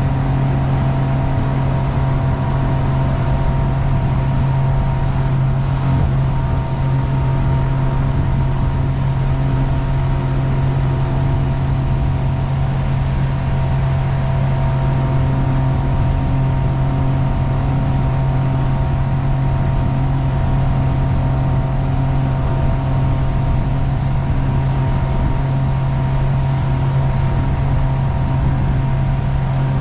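Jet boat engine running at a constant speed: a steady drone that holds one pitch throughout, under an even rushing noise.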